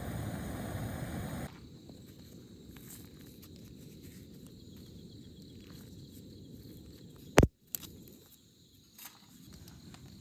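A steady rushing noise that cuts off abruptly after about a second and a half, then quiet outdoor ambience with one sharp, loud snap about seven seconds in and a softer one just after.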